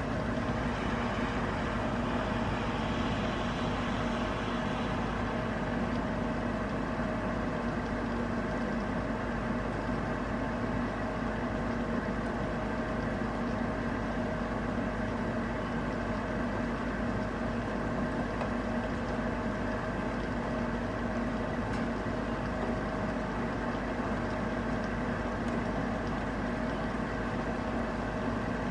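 Steady rain during a thunderstorm, with a constant low mechanical hum underneath. A higher hiss fades out in the first few seconds.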